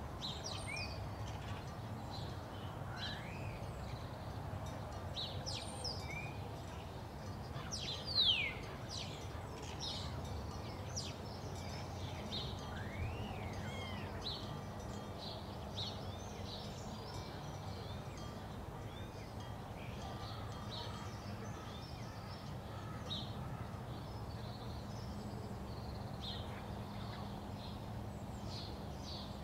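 Many birds chirping and calling over a steady low background rumble, with short chirps and sweeping whistles throughout and one louder downward-sweeping call about eight seconds in.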